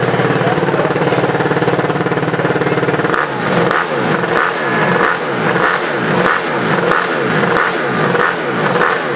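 Dirt bike engine running at a steady speed, then from about three seconds in revving up and down repeatedly, about twice a second.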